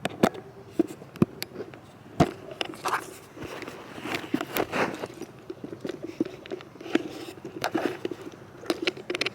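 Handling noise from a handheld camera being turned around: irregular clicks, taps and scraping rubs against the microphone.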